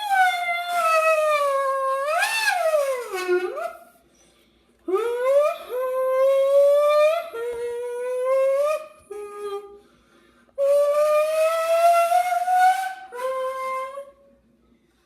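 A child's voice making three long, drawn-out wailing sounds, each gliding in pitch. The first rises sharply about two seconds in and then drops; the second and third climb slowly.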